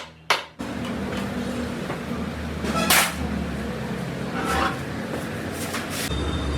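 A sharp knock right at the start, then a steady low mechanical hum with a few separate metallic clanks of workshop tools.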